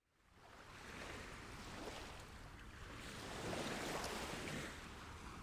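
Faint sea waves washing, fading in and swelling and ebbing, loudest a little past the middle.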